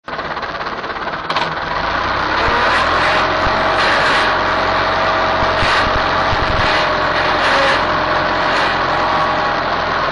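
Tractor engine running steadily, with a steady whine over the engine noise; it gets a little louder about a second and a half in.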